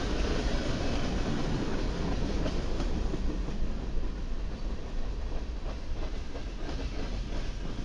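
Freight train of boxcars rolling past, its steel wheels rumbling steadily on the rails and clicking over the rail joints.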